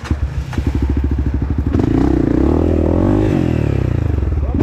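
Dirt bike engine comes in suddenly with a fast, even chugging beat, then from about two seconds in runs harder under throttle, its pitch rising and falling.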